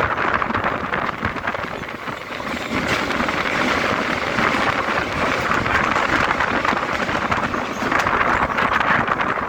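Mumbai suburban local train running on the track: a steady, loud rushing noise with fine rapid rattling, dipping briefly about two seconds in.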